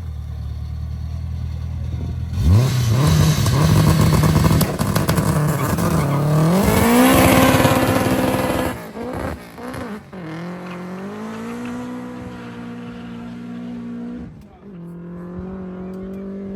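Car engine accelerating hard: a loud surge about two seconds in, then the revs climb steeply. The revs drop and climb again twice, near nine and near fourteen seconds in, as the car shifts up through the gears.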